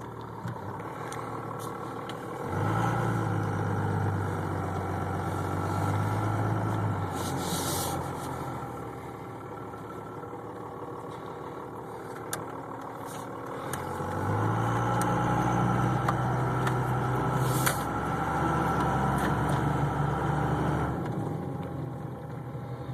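Diesel pickup with twin turbochargers (S362 and S475) accelerating twice, each pull lasting several seconds with the engine note rising in level and the turbos spooling up quickly, easing back to a lower drone between pulls.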